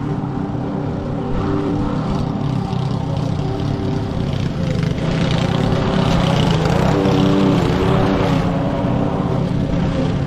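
Petrol lawn mower engine running steadily under load in thick, wet grass, its pitch wavering a little about halfway through.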